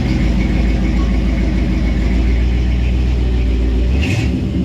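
A car engine running steadily close by, a deep, even rumble. There is a short hiss about four seconds in.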